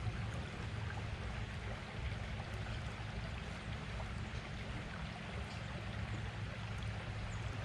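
Steady rush of creek water flowing, under a constant low rumble.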